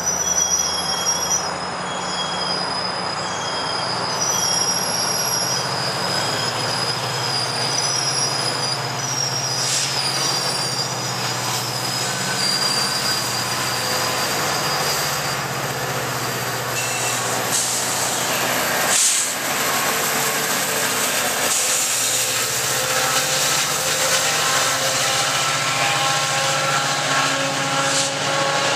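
GO Transit train of bi-level coaches passing, with the diesel locomotive's low drone and steady rolling rumble, and high squeals from the steel wheels on the rails. A single sharp knock sounds about two-thirds of the way through, and further squealing tones come in near the end.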